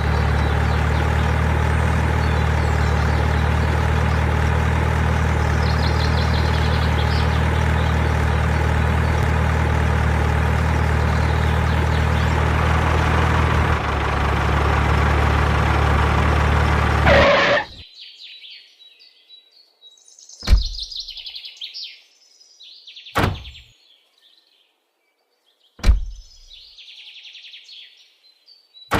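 A small motor hums steadily, changes pitch slightly about two-thirds of the way through, then cuts off suddenly. After it stops, birds chirp and there are several sharp thuds, spaced a few seconds apart.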